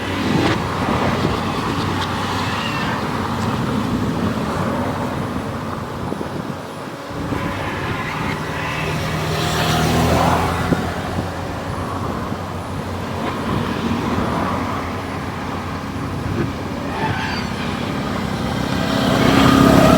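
Motor vehicles running, like road traffic, with a steady engine hum that swells louder about ten seconds in and again near the end.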